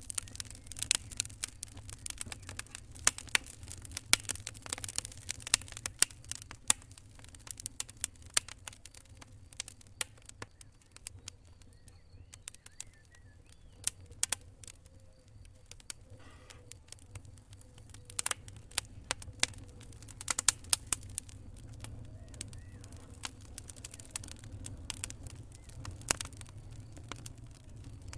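Wood fire in a fireplace crackling: irregular sharp pops and snaps, some much louder than the rest, over a steady low rumble.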